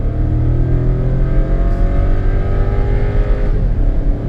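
VW Nivus 1.0 TSI three-cylinder turbo engine under full throttle, heard from inside the cabin, its pitch rising steadily as the car accelerates hard. About three and a half seconds in the revs drop at an upshift and begin climbing again.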